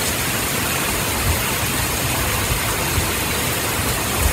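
Torrential rain pouring down in a dense, steady hiss, with a low rumble underneath and a few faint knocks.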